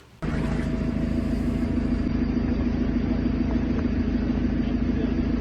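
Steady rumble of a motor vehicle on the road, with a low engine drone, cutting in abruptly just after the start.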